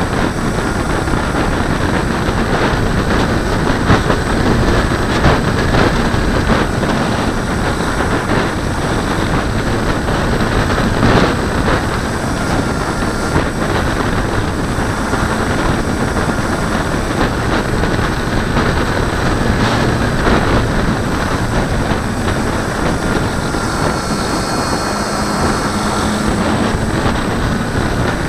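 Steady, loud rush of air and wind buffeting a camera mounted on a glider's wing in flight, with faint thin whistles coming and going.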